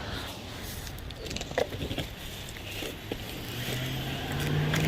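Cardboard packages being handled and carried, with a few short knocks and rustles, over a low steady hum that grows louder near the end.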